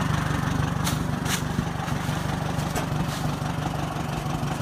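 Oliver 2-44 tractor engine running steadily, with two short sharp clicks about a second in.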